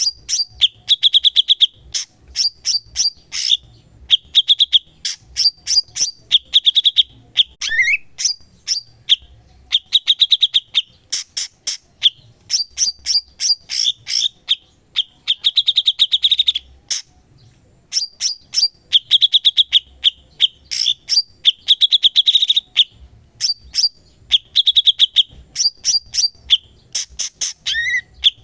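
Cucak cungkok bulbul singing continuously, in rapid phrases of sharp clicking notes and fast rattling trills with brief pauses between them. This is the vigorous, prolific 'gacor' song used as a master recording for training other songbirds.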